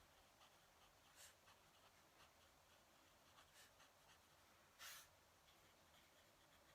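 Fountain pen nib scratching faintly across paper in short strokes, with one louder stroke about five seconds in.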